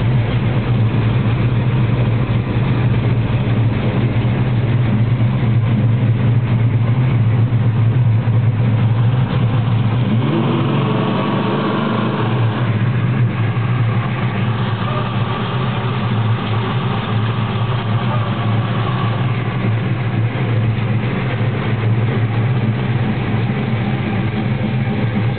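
1971 Dodge Charger Super Bee's 383 Magnum big-block V8 idling steadily, with a brief rise in pitch about ten seconds in.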